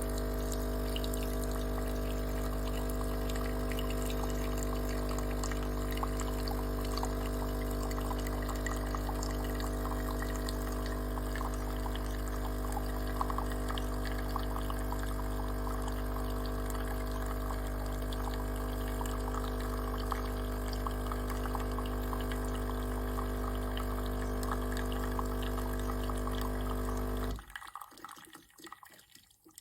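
Philips 5400 Series espresso machine dispensing a drink: its pump hums steadily while liquid pours and splashes into the cup. The hum cuts off suddenly about 27 seconds in, leaving a few fading drips.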